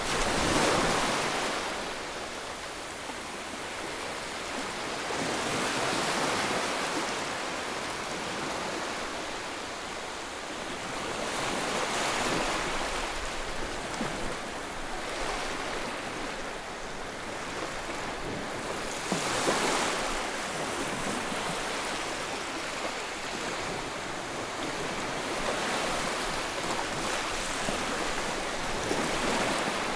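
Ocean waves breaking and washing up on shore in a steady surge-and-retreat, a swell about every six seconds.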